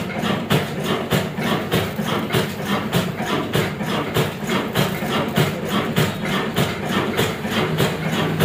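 Vintage Ruston Hornsby diesel engine running steadily, a regular chugging beat of about four strokes a second.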